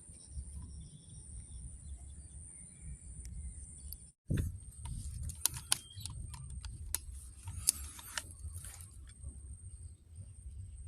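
Low wind rumble on the microphone with a steady high-pitched whine. Scattered sharp clicks and rustles of handling come in about halfway, after a brief dropout.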